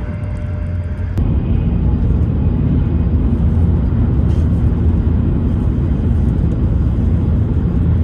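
Steady low rumble of a Hokuriku Shinkansen Kagayaki train running, heard from inside the passenger cabin. The rumble steps up louder about a second in.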